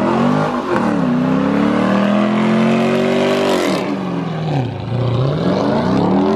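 Fifth-generation Chevrolet Camaro's engine revving hard in a burnout with the rear tyres spinning. The revs climb and hold high for a few seconds, drop away steeply about four seconds in, then climb again near the end.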